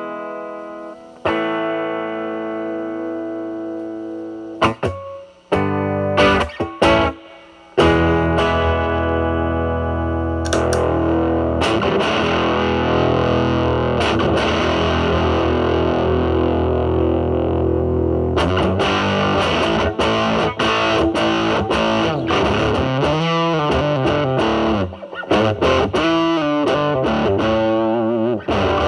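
Telecaster electric guitar played through a Marshall Valvestate amp's drive channel with heavy distortion: a ringing chord that fades, a few short stabbed chords, then thick, continuous distorted riffing from about eight seconds in.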